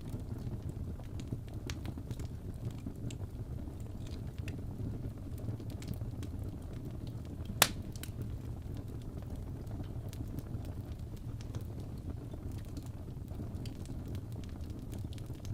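Crackling fireplace: a steady low rumble of burning logs with scattered small crackles and one loud pop about seven and a half seconds in.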